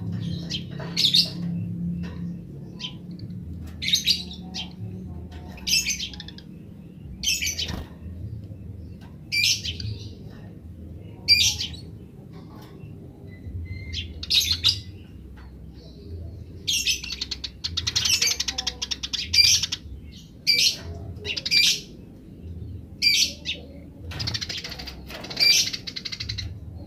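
Eurasian tree sparrows chirping: short single chirps about every second or two, breaking into rapid chattering runs about two thirds of the way in and again near the end.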